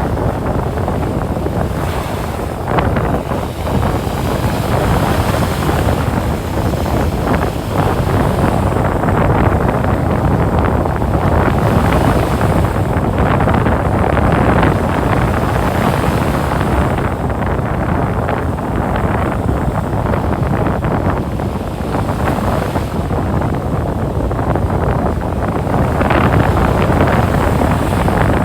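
Ocean surf breaking and washing up on a sandy beach in slow swells, with wind rumbling on the microphone.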